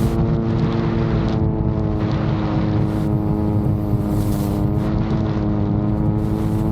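Motors and propellers of a VTOL drone in flight, a steady pitched drone that wavers slightly in pitch, with strong wind rumbling on the microphone.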